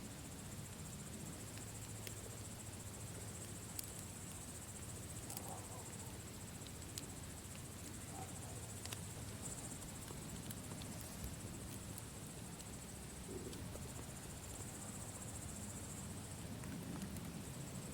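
Campfire crackling: scattered sharp pops over a low, steady rumble, with a steady high chirring throughout.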